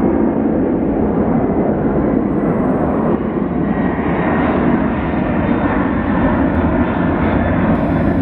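Airplane taking off, its engines at takeoff power making a steady, loud rumble with a faint whine above it.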